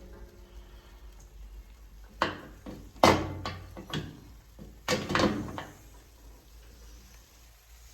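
A series of about six sharp knocks and clatters, between about two and five and a half seconds in, like something being handled or bumped.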